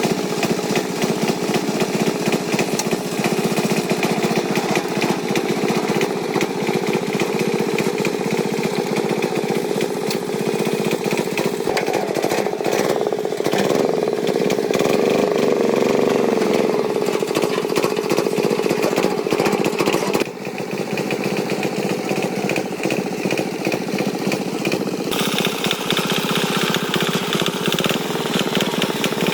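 Tractor engine running continuously. It grows louder for a few seconds around the middle, drops suddenly about twenty seconds in, and picks up a higher-pitched edge near the end.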